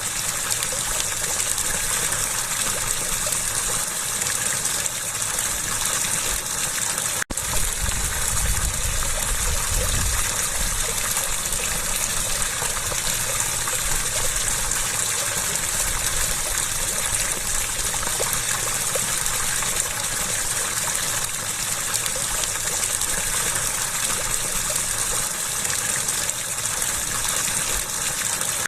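Water gushing and running steadily in a continuous rush. It cuts out for an instant about seven seconds in, then carries on with a little more low rumble.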